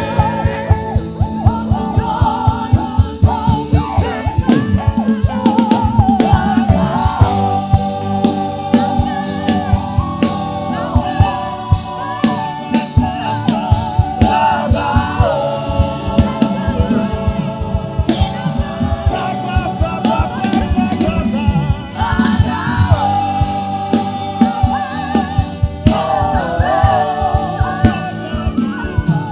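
Gospel worship music: voices singing held, sliding melody lines over a band with a drum kit keeping a steady beat.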